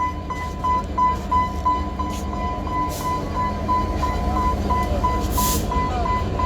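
Level-crossing warning signal beeping steadily, about three high beeps a second, over a continuous low rumble from the train. A short hiss about five and a half seconds in.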